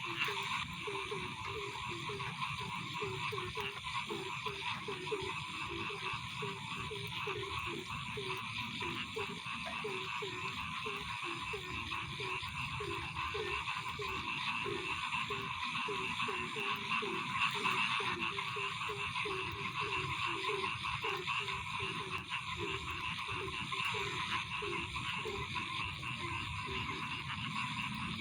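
Night chorus of frogs croaking. Many short low calls repeat several times a second, over a steady, denser, higher-pitched chorus.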